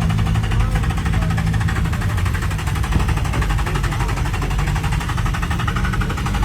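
Car engine running near the microphone, its exhaust a rapid, even pulsing; its low steady note breaks up about two seconds in.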